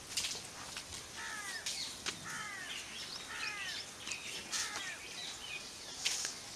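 A bird calling over and over outdoors: a run of short, downward-sliding notes, about two a second, from about a second in until about five seconds in. A few soft knocks and a brief hiss come near the start and end.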